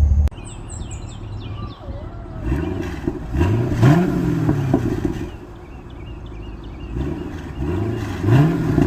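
A 2012 Chevrolet Camaro's exhaust at idle, blipped four times: each rev rises quickly and falls back, two about three seconds in and two more near the end. A loud steady engine drone cuts off abruptly right at the start.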